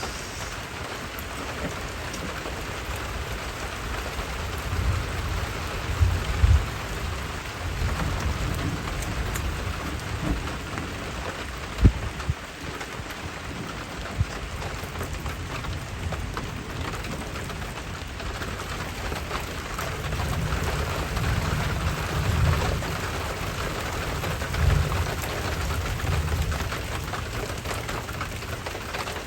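Steady rain falling, with low rumbles of thunder swelling about five seconds in and again from about twenty seconds in. There is one sharp knock about twelve seconds in.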